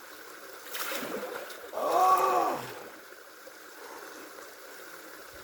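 Steady rush of flowing water, with a brief splashing noise about a second in and a short wordless call that rises and falls in pitch around two seconds in.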